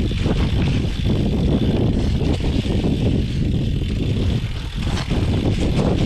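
Riding noise from a cyclocross gravel bike on a rough trail: a steady loud rush of wind buffeting the microphone, mixed with tyres rattling over dirt and gravel.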